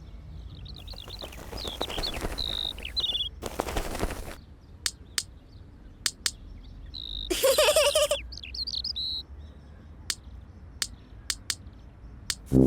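Small birds chirping in short high twitters, in two spells, with brief noisy rustles and a scattering of sharp single taps in between.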